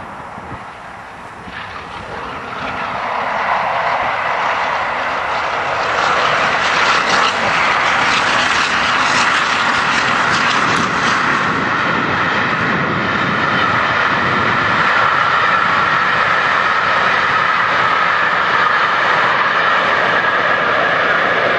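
A train passing at speed close by: steady rolling noise that grows louder over the first few seconds, then holds level as the train goes by.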